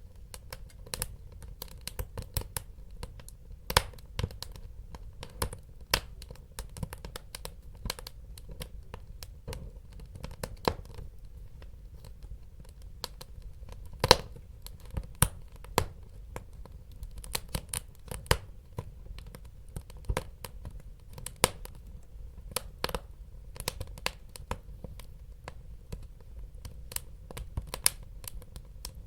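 Wood fire crackling in a fireplace: irregular sharp pops and snaps over a low steady rumble of burning, with a louder pop about halfway through.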